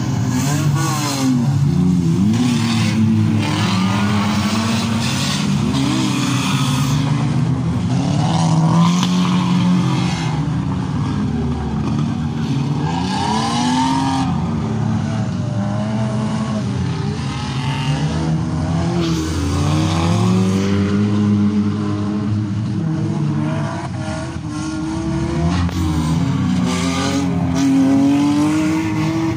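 Several demolition-derby cars' engines revving at once, their pitches overlapping and rising and falling as the cars accelerate, brake and manoeuvre on the dirt track.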